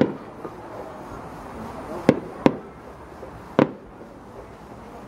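Aerial fireworks going off: four sharp bangs, one at the start, two close together about two seconds in, and one more about three and a half seconds in, the last trailing off in a short echo.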